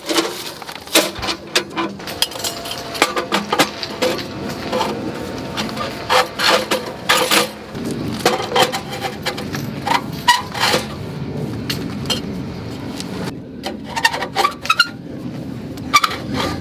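Camping gear being handled and set up: a busy run of sharp metallic clinks, knocks and rattles, many in quick succession.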